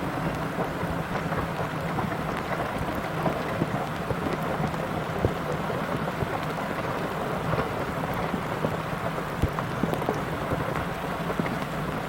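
Rushing river water with the excavator's diesel engine humming steadily underneath, and scattered sharp knocks and splashes.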